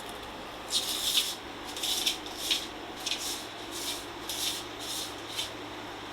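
Repeated rubbing strokes on a surface, about two a second, each a short hiss.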